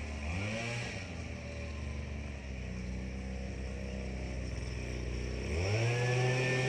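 Tractor engine running at a low idle, with a short blip of the throttle about half a second in. Near the end it is throttled up to a higher steady speed and held there.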